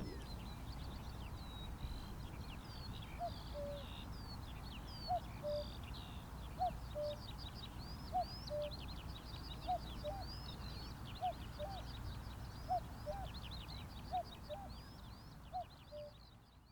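Common cuckoo calling its two-note "cuck-oo", a higher note then a lower one, about nine times at roughly one-and-a-half-second intervals starting a few seconds in, over a chorus of small songbirds singing; it all fades out at the end.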